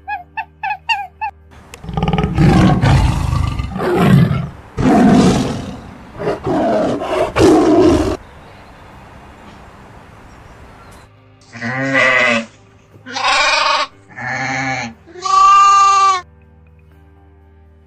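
Animal calls over soft background music: a few short high chirps at the start, then several loud, rough roaring calls, then four pitched bleating calls.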